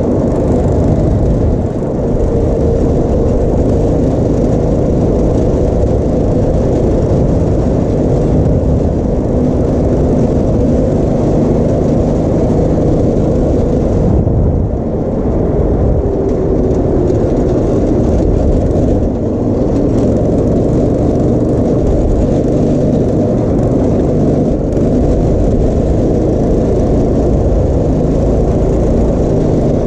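Go-kart engine running steadily under way, its pitch shifting up and down with the throttle and dipping briefly about halfway.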